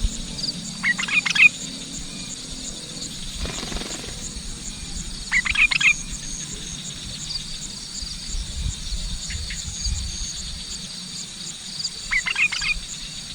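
Sooty-headed bulbul giving short bursts of quick chattering calls, three times about four to seven seconds apart, with insects trilling steadily in the background.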